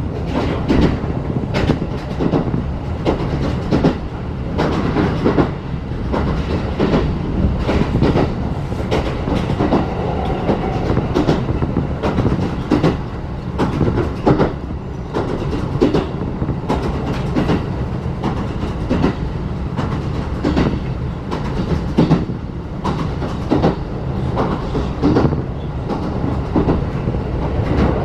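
Interior of a 35-series passenger coach on a locomotive-hauled train at speed: the steady rumble of the coach running on the rails, with frequent wheel clicks and knocks over rail joints.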